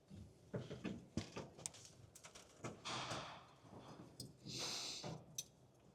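Faint metal-on-metal knocks and rasping as a rusted-on steering rag joint is pried and tapped to break it loose from its shaft splines: a few short sharp knocks in the first two seconds, then longer rasping sounds.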